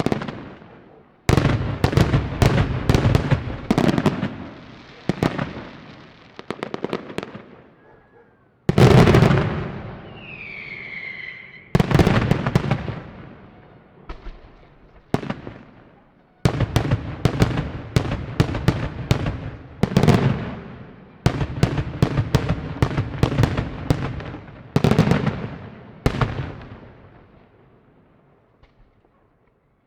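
Fireworks display: repeated volleys of rapid firework bangs and crackling, coming in about six waves that each start suddenly and fade off with echo.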